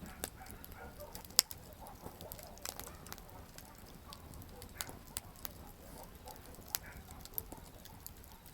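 Wood campfire crackling: irregular sharp pops and snaps over a faint steady hiss of burning, with the loudest pop about a second and a half in.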